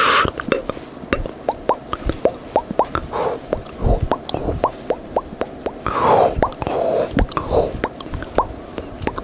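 ASMR mouth sounds imitating bubbles popping: a rapid series of small wet pops made with the lips and tongue close to the microphone, each with a short upward-rising pitch, a few per second. Breathy hisses come in at the start and twice later on.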